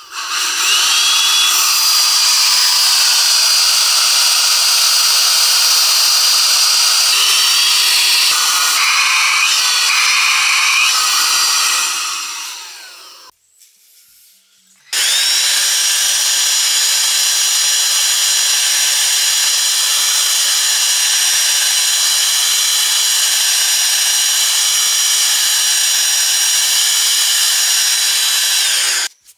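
Small 12 V vacuum motor and fan of a homemade PVC-pipe vacuum cleaner running at full speed with a steady high whine, its pitch wavering for a few seconds in the first half. It winds down to silence, then starts again suddenly about halfway through and runs steadily until it cuts off near the end.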